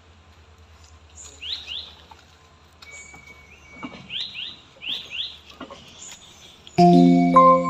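Birds calling: quick rising chirps, often two in quick succession, with short high notes between. Near the end a much louder sound of several steady held tones cuts in suddenly.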